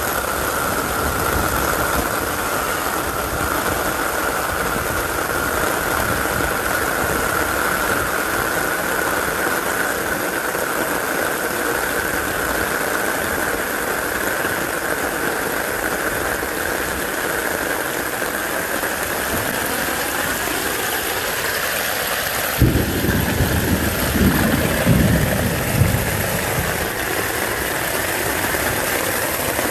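Steady heavy rain with water rushing through an outdoor drainage system. About three quarters of the way in, a low rumble with a few bumps rises for several seconds.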